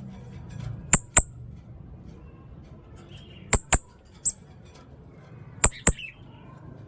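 Blue-crowned hanging parrot (serindit) giving short, sharp, very high-pitched calls, mostly in quick pairs: a pair about a second in, another a little after three and a half seconds, a single call soon after, and a last pair near the end.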